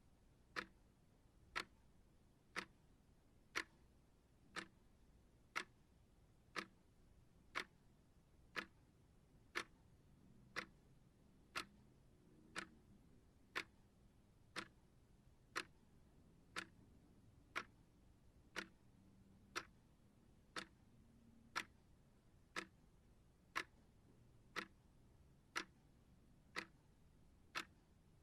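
Clock ticking steadily at about one sharp tick per second, with near silence between the ticks.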